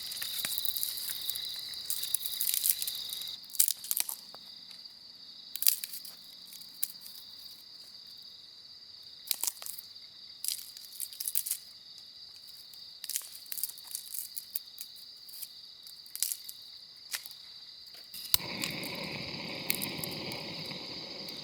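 Crickets trilling steadily in a night forest, with scattered sharp cracks and rustles of handling. About eighteen seconds in, a steady rushing noise starts and continues.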